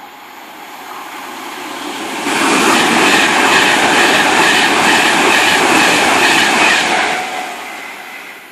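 A train passing through at speed. It builds over the first two seconds, jumps sharply louder as it goes by for about five seconds, then fades away.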